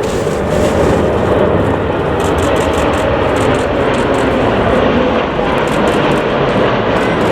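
Jet airliner engine noise, loud and steady: a dense, even rush with no break.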